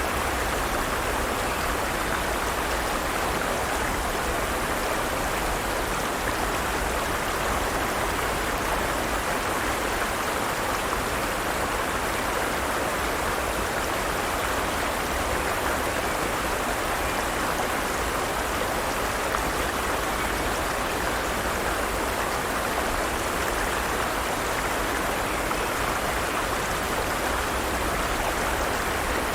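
Forest stream running: a steady, even rush of water.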